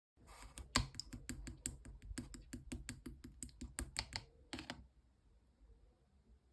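Purple marbled slime being squished and pressed by hand, making a quick run of sharp clicking pops, about four to five a second, for nearly five seconds before stopping.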